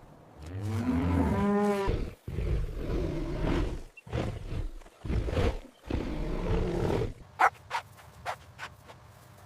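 A cow mooing: several long, loud moos, the first rising and then falling in pitch. From about seven seconds in, a string of short, sharp sounds follows.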